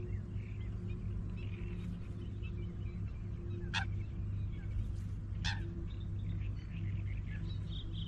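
Small birds chirping and calling, with two sharp, quick calls near the middle, over a steady low hum.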